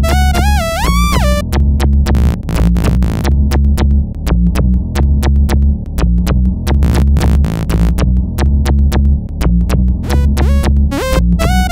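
Electronic music: a deep bass pulsing in a steady pattern under drum-machine hits, with a synth lead whose notes glide up and down about a second in and again near the end.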